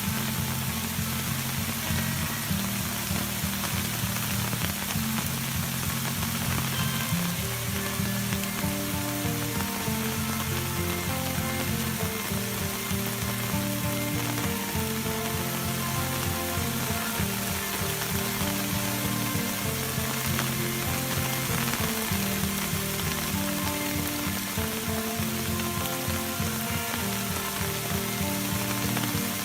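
Steady hiss of heavy rain with a melodic music track playing under it.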